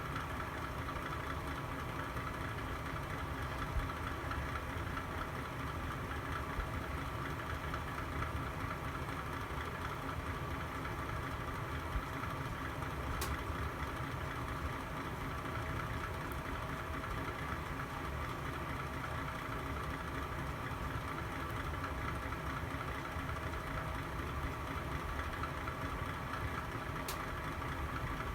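Fire burning in a fireplace: a steady low rumble and hiss, broken by a few single sharp crackles.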